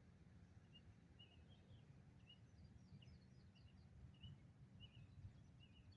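Faint bird chirps, short and repeated about every half second, over a low steady outdoor rumble; otherwise near silence.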